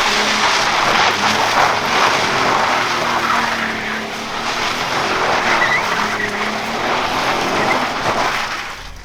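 Tyres squealing and skidding without a break as an Audi A3 3.2 VR6 is driven in donuts, with the engine held at high revs underneath. The sound cuts off suddenly near the end.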